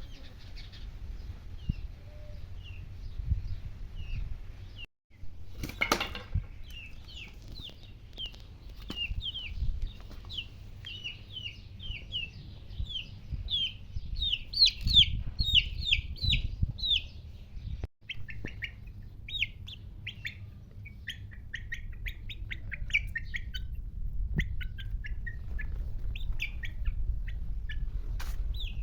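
Small birds chirping in quick, short, downward-sliding calls, many in a row and loudest around the middle, over a low rumble. A sharp, loud sound cuts in about six seconds in.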